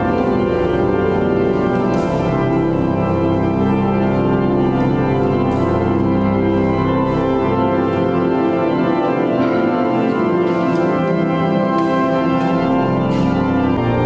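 Church pipe organ playing slow, sustained chords. The lowest bass notes drop out for a few seconds past the middle and come back near the end.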